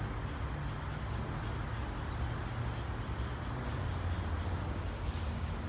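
Steady low rumble with no clear beat or events.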